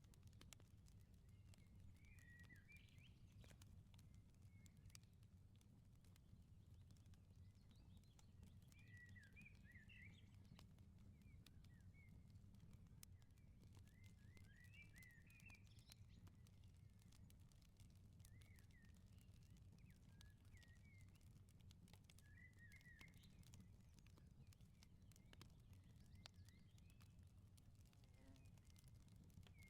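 Faint wood fire crackling with scattered small pops over a low steady rumble, while small birds chirp in short phrases every few seconds.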